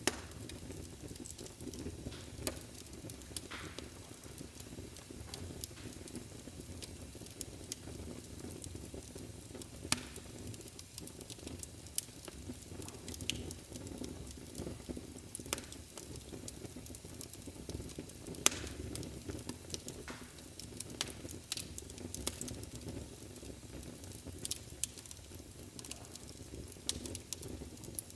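Wood fire burning in a fireplace: a steady low rumble of flames with irregular sharp crackles and pops, two louder pops about ten seconds in and again about eight seconds later.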